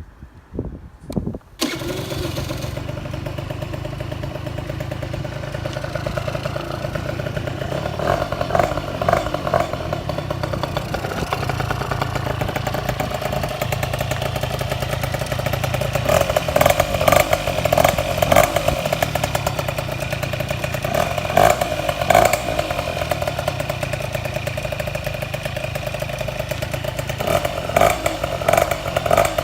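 Honda AF27 Dio two-stroke scooter engine, bored up to 74.8 cc with a sports expansion chamber, starting about a second and a half in after a few clicks, then idling with several short throttle blips.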